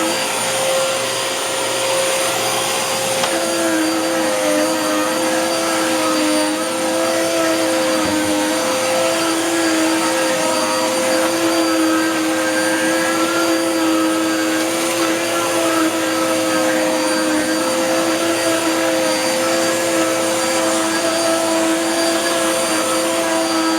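Dirt Devil Power Max Rewind upright vacuum, fitted with a Power Max Pet base nozzle, running steadily while it is pushed over a dirty rug. It gives a steady motor whine over the rush of air, and a second, lower tone joins about three seconds in.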